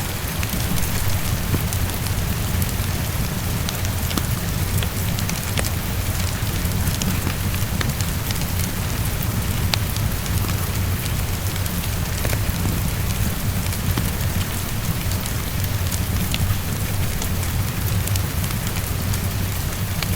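Heavy rain falling steadily against a window, with a low steady rumble underneath and scattered sharp crackles from a fireplace.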